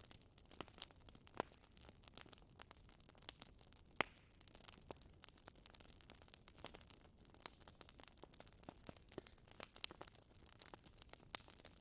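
Wood fire crackling quietly: a steady scatter of small sharp pops and snaps over a faint hiss, with one louder pop about four seconds in.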